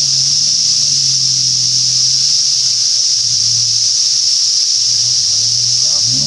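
Toyota 80 Series Land Cruiser engine running at low revs as the truck crawls up a rock step, its note wavering slightly. A loud steady high-pitched hiss lies over it.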